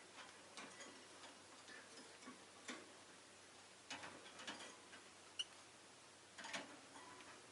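Faint, irregular clicking and tapping from a rosy-faced lovebird moving about and pecking, with one short high peep about five seconds in.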